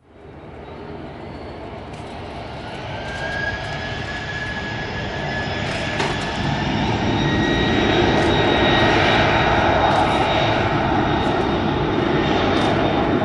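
Boeing 747-400 jet engines, growing steadily louder over about eight seconds as the jumbo jet draws near, then holding, with a high whine over the jet noise.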